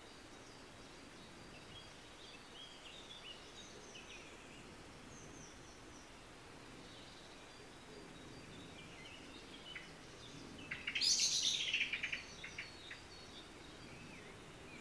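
Wild birds chirping, with one loud, fast song phrase of many quick notes falling in pitch toward the end, over a faint outdoor background hiss.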